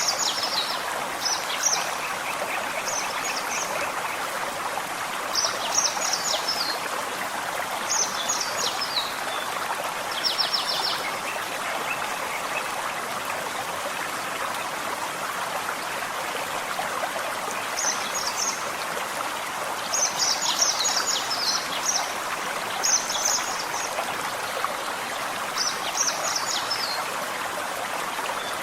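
Small forest stream running steadily. Over it a songbird sings short, high phrases of rapid notes every couple of seconds, falling silent for several seconds in the middle.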